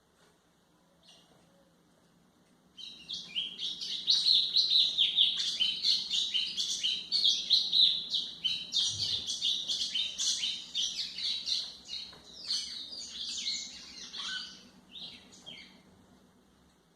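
White-throated seedeater (golinha) singing: a fast, continuous run of chirping notes that starts about three seconds in and lasts some thirteen seconds before fading out.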